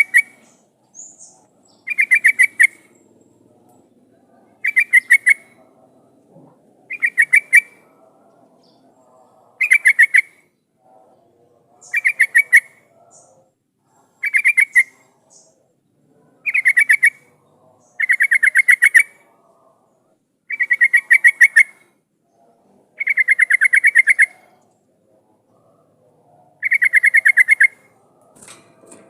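Yellow-vented bulbul (trucukan) calling: a rapid, bubbly chattering phrase of many quick notes, repeated about every two to two and a half seconds, with the later phrases longer.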